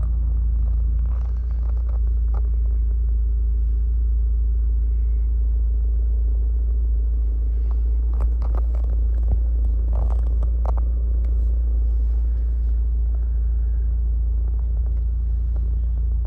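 Mitsubishi Lancer Evo Tommi Makinen's 2-litre turbocharged four-cylinder engine idling steadily, with a few light clicks about eight to eleven seconds in.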